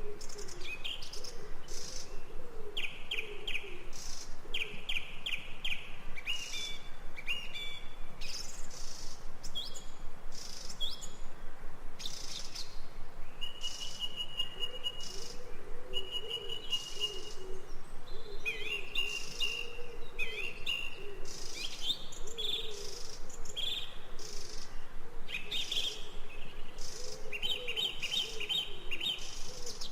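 Recorded birdsong: several birds chirping and trilling in short repeated phrases, with a lower, wavering call coming and going beneath them.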